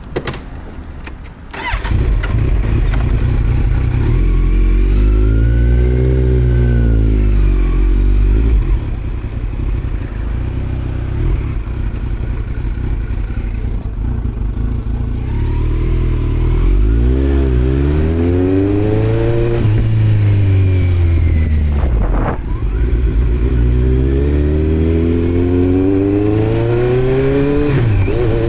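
2018 Kawasaki Z900's inline-four engine through a Yoshimura muffler on Delkevic headers with no dB killer. It comes in loud about two seconds in, then revs climb and drop back again and again as the bike accelerates and shifts through the gears.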